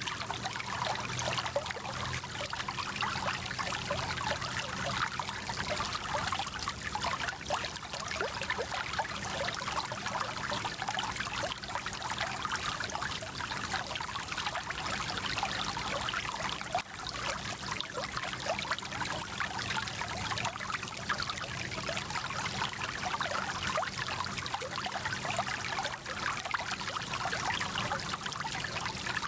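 Small mountain stream babbling and trickling over stones, a steady splashing rush.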